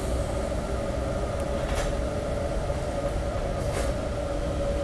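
Cabin noise of a 700T high-speed train pulling out of a station and gathering speed: a steady low rumble with a held whine, and two short hisses about two seconds apart.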